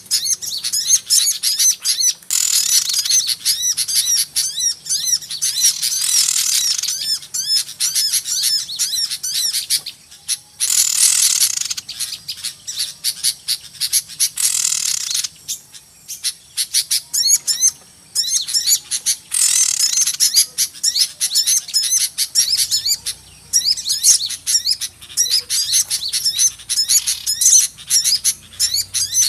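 Many small birds chirping and twittering at once, a dense, noisy chorus of short high calls that overlap without a pause, swelling louder in a few stretches. It is a lure call of small birds, played to draw wild small birds in.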